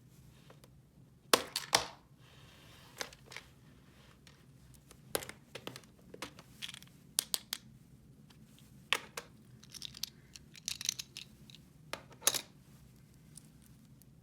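Hands handling small plastic toy pieces and packaging: irregular clicks and knocks with some crinkling, the loudest knocks about a second and a half in.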